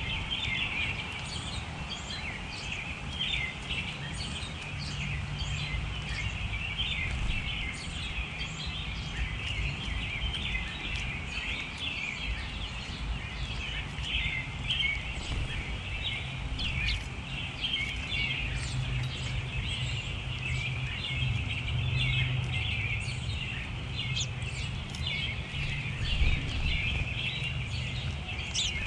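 Many small songbirds chirping and twittering at once, a dense, continuous chatter of short calls, over a low steady hum.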